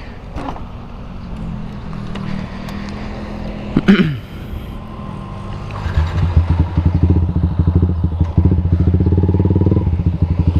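A Yamaha MX King 150's single-cylinder four-stroke engine runs with its exhaust note, with one brief loud sweep about four seconds in. About six seconds in, the engine note grows louder and pulses strongly as the bike pulls away under throttle, and it shifts again near the end.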